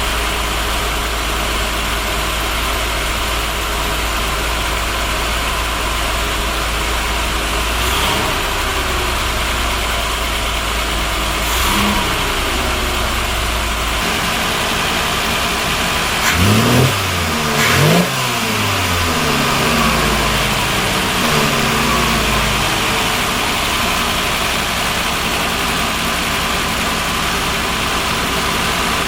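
1974 Mercedes-Benz 280C's carbureted M110 twin-cam straight-six idling warm and blipped: two light blips about a third of the way in, two sharp revs about halfway through that climb and drop quickly, then a few smaller blips before it settles back to idle.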